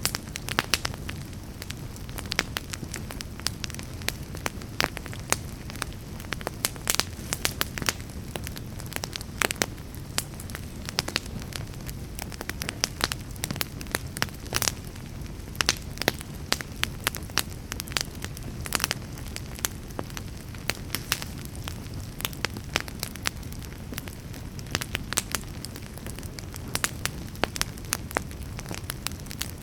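Wood fire crackling and popping: a steady low rush of flames under many sharp, irregular pops and snaps.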